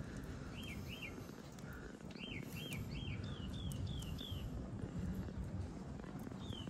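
A small bird chirping in short, quick notes, each a brief rise and fall in pitch: two near the start, a run of about three a second from about two seconds in, and a couple more near the end, over a low steady outdoor background.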